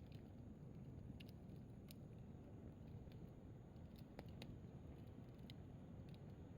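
Firewood burning in a fire-pit stand, giving a few faint, scattered crackles and pops over a low steady background.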